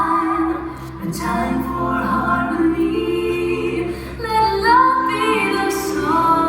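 A woman singing a slow song over instrumental backing music, holding long notes that glide between pitches.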